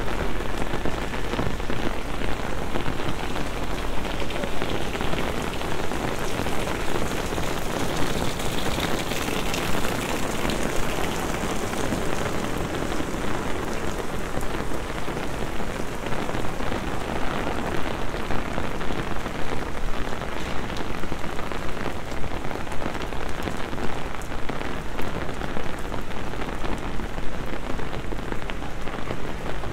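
Heavy rain pouring onto a wet street and paving stones: a dense, steady hiss full of countless small drop splashes.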